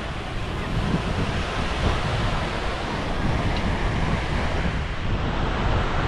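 Ocean waves breaking and washing on a beach, with wind buffeting the microphone.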